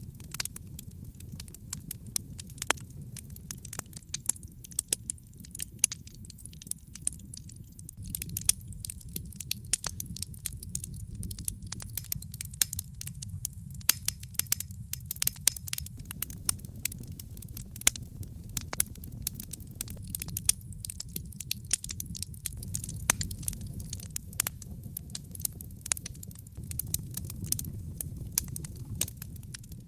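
Wood fire crackling in a fireplace: frequent irregular sharp pops and snaps over a low steady rumble of the flames.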